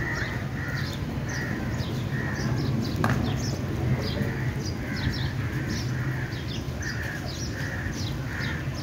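Birds calling: one call repeated about twice a second, with many short, high chirps over it and a steady low rumble underneath.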